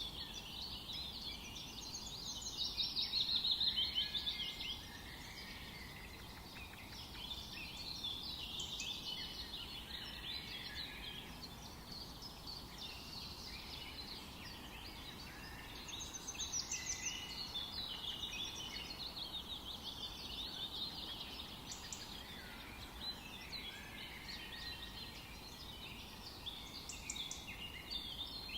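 Several songbirds singing at once, a dense chorus of overlapping chirps and trills, busiest a few seconds in and again past the middle.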